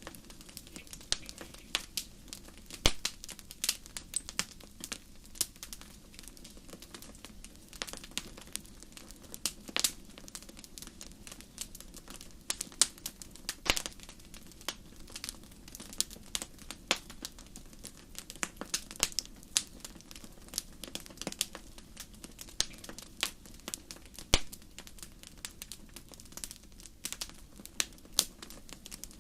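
Wood fire crackling and popping, with irregular sharp snaps over a soft steady rush.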